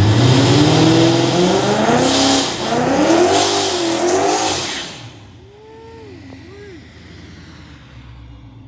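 High-powered car engine accelerating hard down a drag strip. The pitch climbs, drops at a gear shift about two and a half seconds in and climbs again, then the sound fades as the car pulls away after about five seconds.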